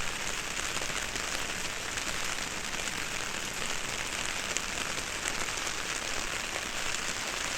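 Steady rain: a dense, even patter of drops, heard from under an umbrella.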